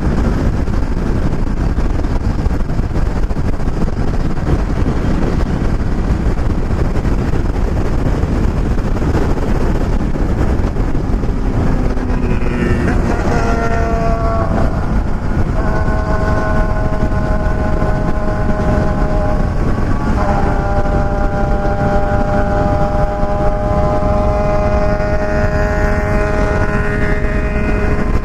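Motorcycle riding at speed under heavy wind rush on the microphone. Partway through, the engine note climbs in quick steps as the bike accelerates, then holds a steady pitch at cruise, briefly dropping and settling again later on.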